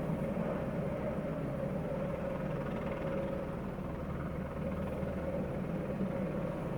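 Police rescue helicopter hovering close overhead: a steady rotor chop and turbine whine that holds even throughout.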